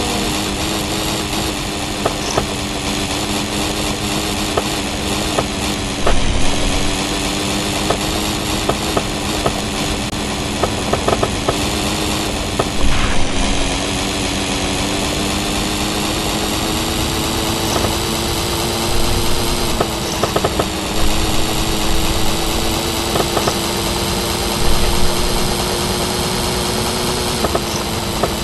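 Small two-stroke moped engine running steadily, its pitch dipping briefly and climbing back a few times as the throttle changes, with clicks and rattles over it.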